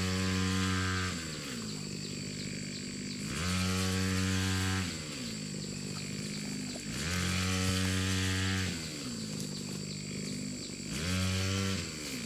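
Small engine revving up and dropping back to idle four times, each burst held for a second or so.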